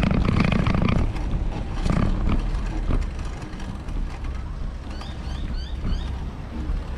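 Wind buffeting the microphone of a camera on a moving bicycle, a low rumble that surges in gusts, loudest in the first second.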